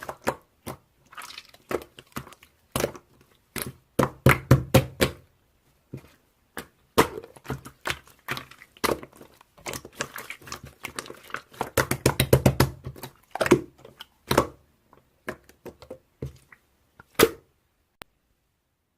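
Slime being squeezed and poked by hand, making clusters of quick sticky pops and clicks with soft thuds beneath some of them.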